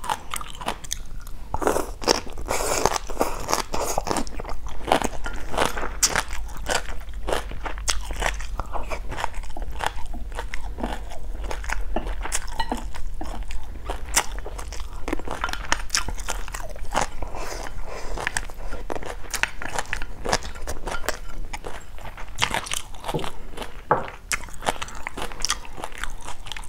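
Close-miked chewing and crunching of stir-fried water spinach: a steady run of crisp crunches as the crunchy stems are bitten and chewed.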